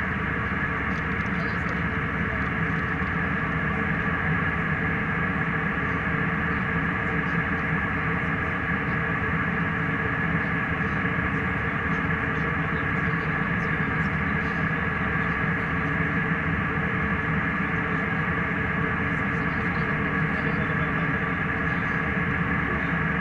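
Steady drone of an airliner cabin in flight: jet engine and airflow noise with a constant hum of several steady tones and no change in level.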